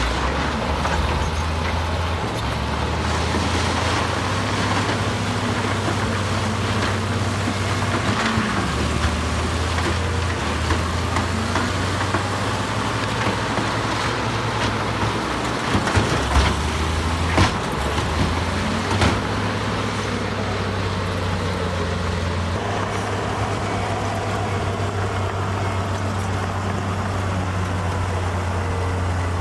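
Diesel engine of heavy earthmoving machinery running steadily under load, with a few sharp metallic clanks about two-thirds of the way through.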